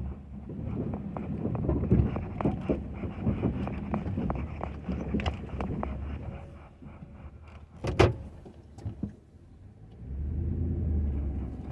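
Ford F-250 pickup with a Western snow plow at work: the engine runs under a string of short knocks and clanks, with one sharp bang about eight seconds in and a low rumble building near the end.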